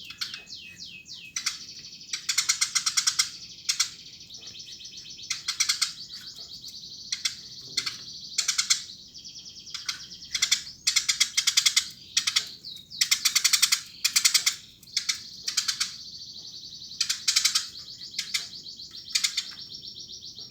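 Eurasian tree sparrow chirping energetically, in repeated bursts of rapid high chirps about a second long, with a few short downward-sliding calls near the start.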